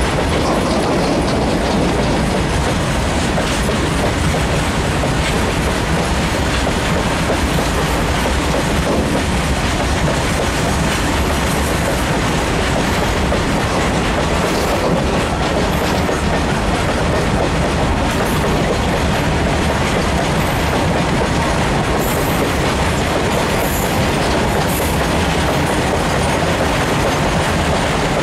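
Long rake of open steel freight wagons rolling past close by: a steady rumble with the wheels clattering over the rail joints.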